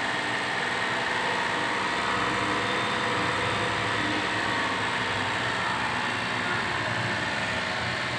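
Daihatsu Xenia 1.0's three-cylinder petrol engine idling steadily.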